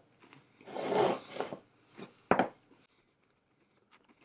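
A person biting into and chewing a breaded onion ring: a noisy stretch of chewing about a second in, then one short, sharp crunch a little after two seconds.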